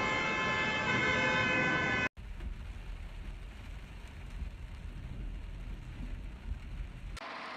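Heavy rain and storm wind on a phone's microphone. For the first two seconds steady high tones sound over the rain; after a sudden cut, deep wind rumble buffets the microphone.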